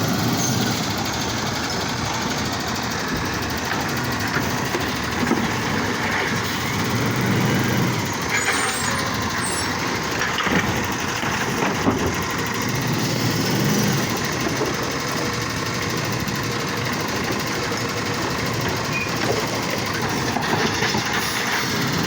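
Garbage truck engine running steadily, with a few brief knocks partway through.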